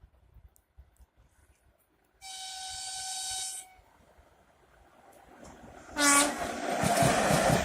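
ChS7 electric locomotive sounding a steady high-pitched horn for about a second and a half. Near the end the express train's noise rises quickly as it passes close by, with a short lower horn blast and the loud rush and rumble of the wheels on the rails.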